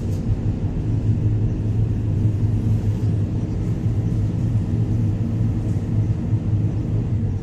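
Sumitomo 490 excavator's diesel engine running steadily with a low drone.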